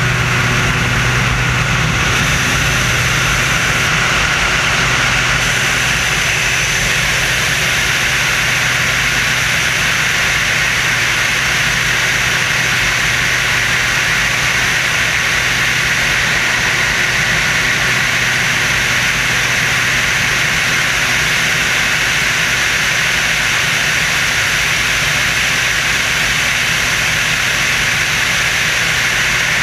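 The Screamin' Sasquatch jet-assisted biplane's engines running steadily at high power: a loud, unbroken low drone under a strong hiss, with no change in pitch or level.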